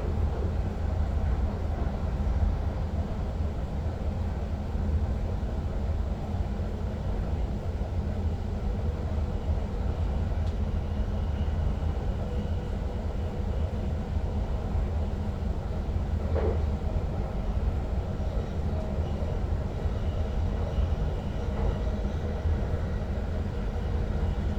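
Steady running noise of an NS Sprinter Lighttrain (SLT) electric multiple unit heard from the driver's cab: a constant low rumble with faint steady tones above it. A brief higher-pitched sound stands out once, about two-thirds of the way through.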